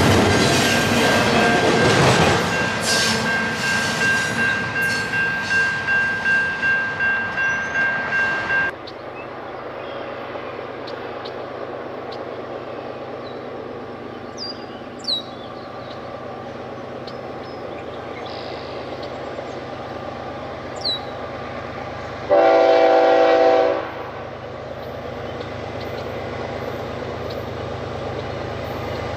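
Train cars rolling past, their wheels clacking over a rail joint about twice a second with a steady high-pitched wheel squeal, until the sound cuts off suddenly about nine seconds in. Later a locomotive horn sounds once, a short blast of about a second and a half, over a quieter steady background.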